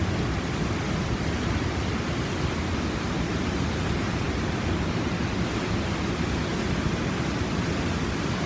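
Waterfall and whitewater cascades of a mountain creek in spring runoff, heard up close: a steady, loud rushing roar of falling water with no breaks.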